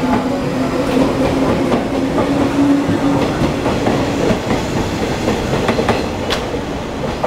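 JR East 189 series electric multiple unit running past, its wheels clicking over the rail joints. A low whine rises slightly and fades out about halfway through.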